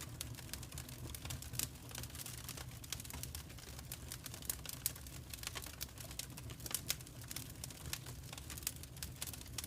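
Wood fire crackling in a fireplace: an irregular run of sharp pops and snaps, a few louder ones among them, over a steady low rumble.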